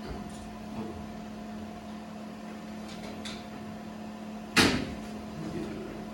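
One sharp knock a little over four and a half seconds in, over a steady hum, with a couple of faint clicks before it, as the glass panel and its frame are being fitted back on the machine.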